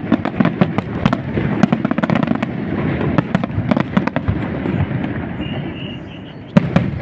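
Aerial fireworks display: a rapid barrage of sharp cracks and bangs over a continuous low rumble, thinning out into a quieter lull about two-thirds through, then one loud bang near the end.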